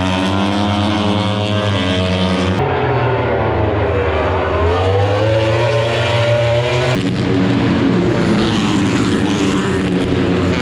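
Moto3 race bikes' 250 cc single-cylinder four-stroke engines at high revs, passing at speed, in three cut-together clips. In the middle clip the engine pitch dips and then climbs again.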